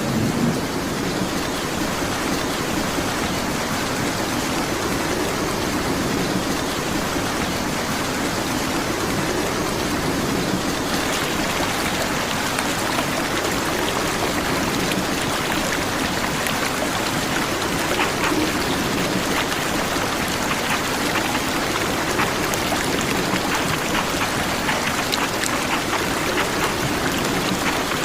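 Steady rain falling, a dense even hiss; about ten seconds in it grows brighter, with many fine drop ticks.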